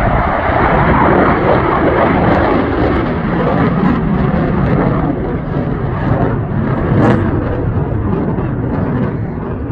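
Jet aircraft flying over at an airshow: a loud, steady jet noise that eases slowly over the last few seconds.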